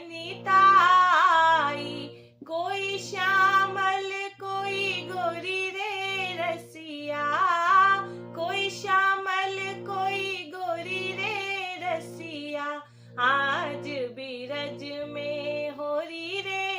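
A woman singing a Holi rasiya folk song in sung phrases, over steady held instrumental notes.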